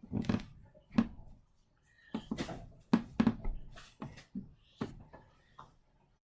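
A person moving about and getting down for sit-ups: irregular thumps and rustling of body and clothing, roughly one every half-second to second. The sound cuts off suddenly near the end.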